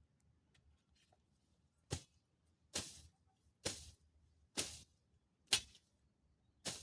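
A hand tool being worked in garden work: a steady series of short, sharp strokes, about one a second, starting about two seconds in.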